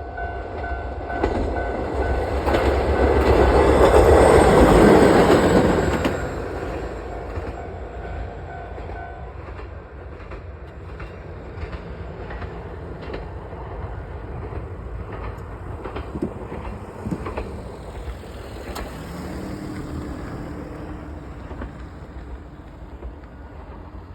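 A Mooka Railway train passes over a level crossing, loudest about four to five seconds in and fading by about seven seconds. The crossing's warning bell rings steadily through the pass and stops about nine seconds in, leaving a quieter background with faint clicks.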